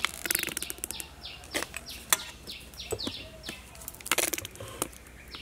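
A small bird chirping over and over, a quick series of short falling high chirps. Several short sputtering spurts break in, the loudest a cluster about four seconds in, as chili sauce is squeezed from a squeeze bottle onto the food.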